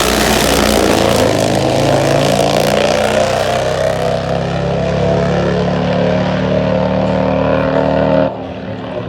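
Top fuel drag motorcycle engine running hard and loud, its pitch climbing slightly and then holding steady. The sound drops off abruptly shortly before the end.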